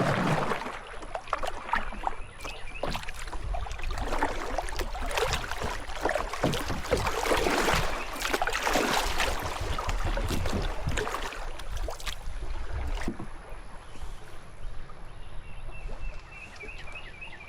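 Kayak paddle strokes dipping and splashing in river water, irregular and continuing for most of the stretch, then quieter for the last few seconds.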